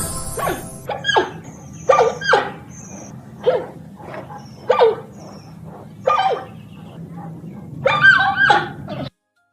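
A dog barking: about nine short barks spaced irregularly, a few of them in quick pairs, over a faint low steady hum. It cuts off suddenly just before the end.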